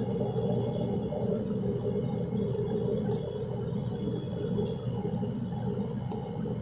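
Gas furnace running: a steady low rumble of the burner and blower, with a few faint clicks.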